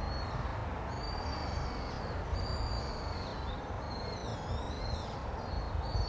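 Birds calling in thin, high whistled notes, several held for about half a second, with one wavering, dipping note about four seconds in, over a steady low rumble.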